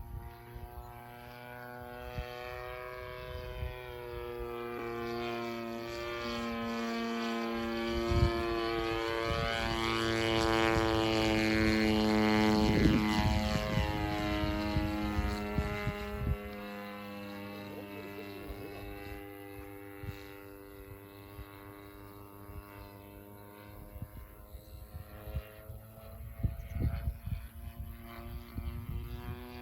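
DLE 30 single-cylinder two-stroke petrol engine and propeller of a radio-controlled aerobatic biplane in flight, growing louder to a peak about halfway through and then fading as the plane flies away, its pitch rising and falling through the manoeuvres. A few short knocks near the end.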